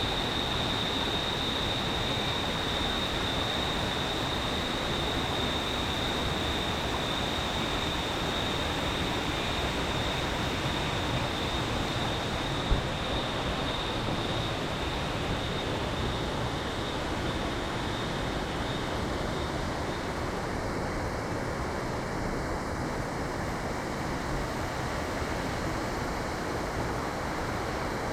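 Waterfall: a steady rush of falling water. A thin high tone runs over it and fades out about two-thirds of the way through, and there is a single sharp click about 13 seconds in.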